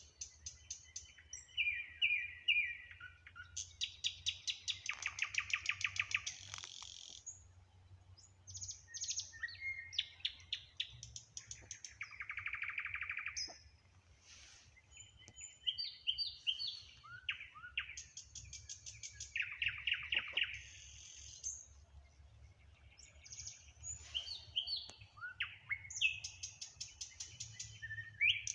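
Nightingale singing: a run of varied phrases of whistles, chirps and fast repeated-note trills and rattles, each phrase broken off by a short pause.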